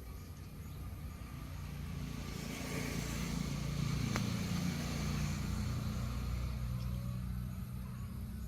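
A motor vehicle passing by, its engine hum growing louder to a peak near the middle and then fading away. A single sharp click sounds about four seconds in.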